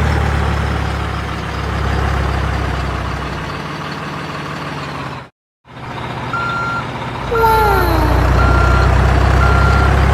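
Heavy vehicle engine running steadily, then after a short break a vehicle reversing alarm beeping about once a second over the engine, with a brief falling squeal and hiss as it starts reversing.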